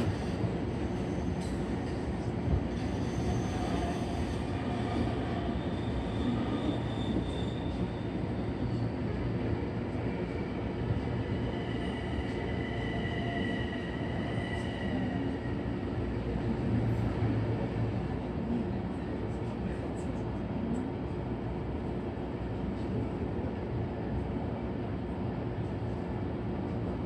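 Electric commuter train running steadily, heard from inside the car: a continuous rumble of wheels on rail, with a faint high whine drifting in and out about halfway through.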